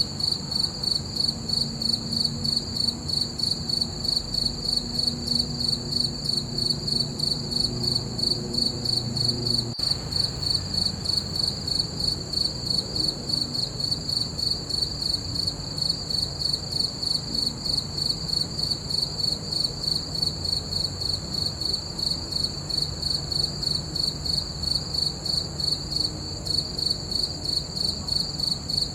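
Crickets chirping in a steady, even rhythm of high-pitched pulses, over a faint low rumble.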